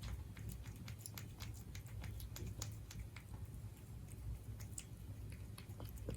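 Siberian cat chewing its food: irregular crisp clicks, several a second, over a steady low hum.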